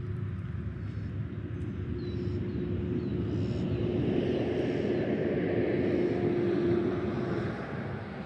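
A passing engine: a steady hum that swells over several seconds, peaks, then fades about seven and a half seconds in.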